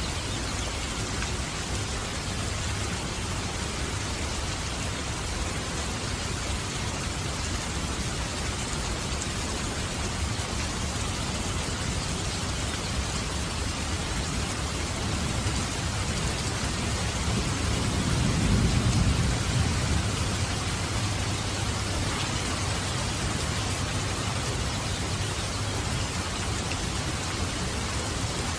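Steady rain falling, with a low rumble of thunder that swells and fades about two-thirds of the way through.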